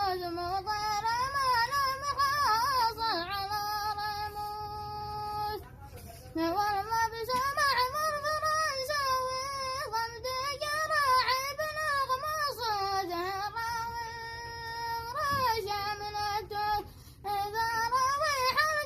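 A high-pitched voice singing a plaintive Yemeni song in Arabic, in long ornamented phrases with wavering, held notes, pausing briefly for breath twice.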